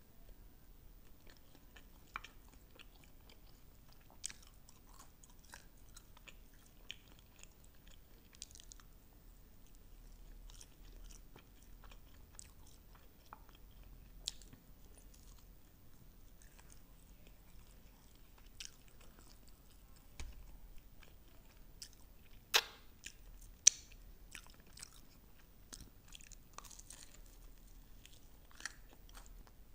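Close-miked chewing and biting of sauce-glazed fried chicken wings, with scattered small crisp clicks. Two sharp, much louder clicks come about three-quarters of the way through.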